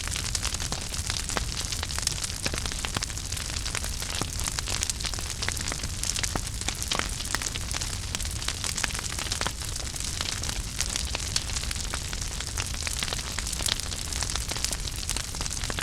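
Wood fire burning in a fireplace: a steady hiss and low rumble with dense, irregular crackles and pops.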